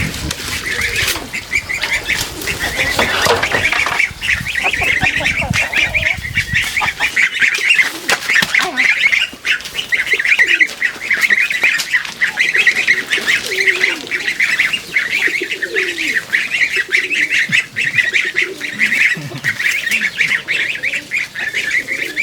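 A large flock of farm waterfowl calling together in a dense, continuous clamour of overlapping quacks and honks.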